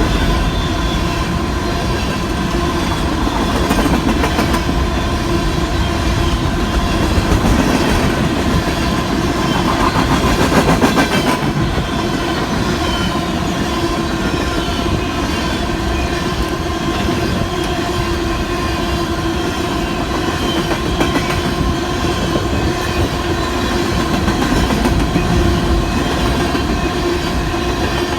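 Loaded coal hopper cars of a long Union Pacific freight train rolling past: a steady rumble with wheel clacks and a few steady ringing tones running through it.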